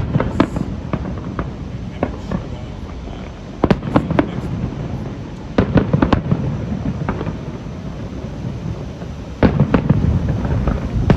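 Fireworks display: aerial shells bursting in four volleys of sharp bangs and crackles, a few seconds apart, over a continuous low rumble of booms.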